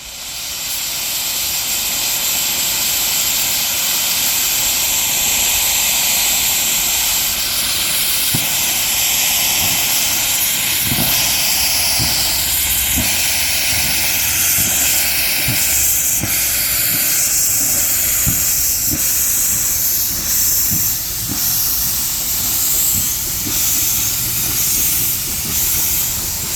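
Narrow-gauge steam locomotive letting off steam, a loud steady hiss. From about a third of the way in, low knocks come about once a second under the hiss.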